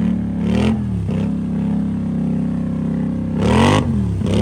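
Off-road vehicle engine revving: a rise and fall, a steady hold in the middle, then quick repeated revs near the end.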